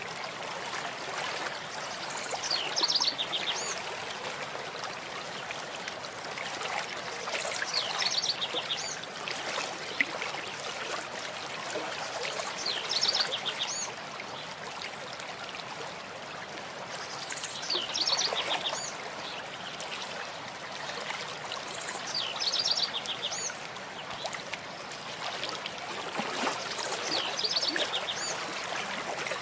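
Running stream, steady, with a songbird singing the same short phrase of quick high notes about every five seconds.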